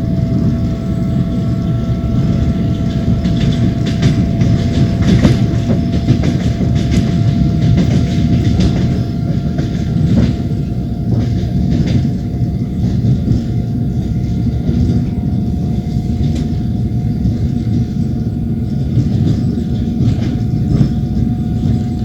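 Passenger train carriage rolling along the track: a steady low rumble of wheels on rails, with the clatter of wheel sets striking over rail joints and a faint steady whine that rises slowly in pitch.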